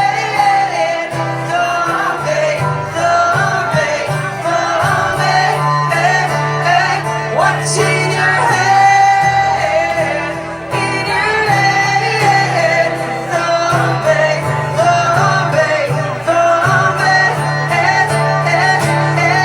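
A singer performing a song live with guitar accompaniment, in a large room.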